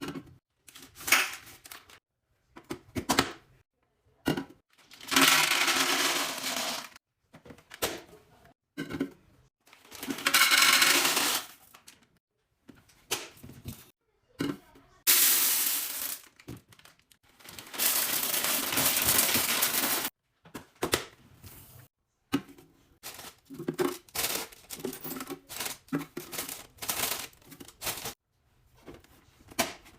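Containers and packaging handled while restocking a fridge: a run of clicks, taps and knocks, broken by several noisy rustling or pouring bursts lasting one to two seconds each.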